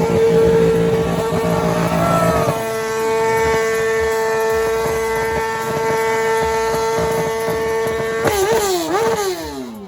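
A vehicle engine held at a steady high pitch for several seconds, then revved up and down several times in quick succession near the end.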